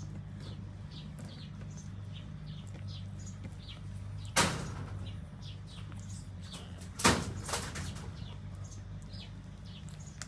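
Two loud sudden bangs, about three seconds apart, over a steady low hum, with many short faint high chirps throughout.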